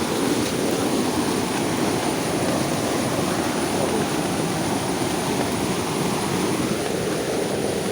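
Rainwater rushing steadily out of a drainage pipe in heavy rain.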